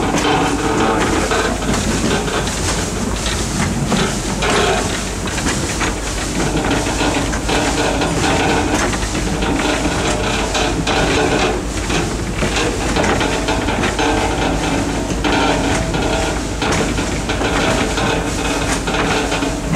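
Train running along an Abt rack-railway section of track: a steady rumble and hiss with frequent small irregular knocks and clatter from the running gear.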